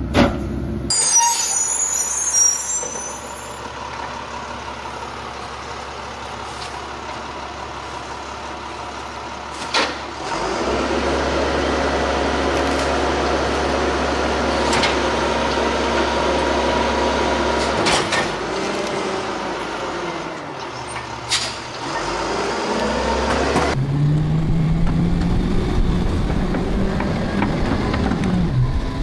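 Garbage truck running, with a hiss of air brakes about a second in and a few sharp clanks. Near the end the engine revs up with a rising pitch.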